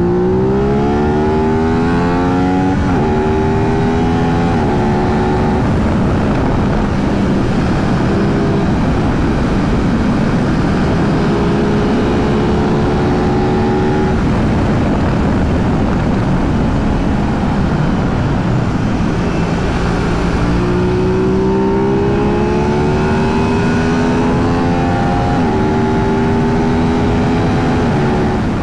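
Aprilia 660 parallel-twin motorcycle engine accelerating through the gears, its pitch climbing and then dropping sharply at each upshift, twice near the start and three times near the end, with a steadier cruise in between. Wind rush runs under it throughout.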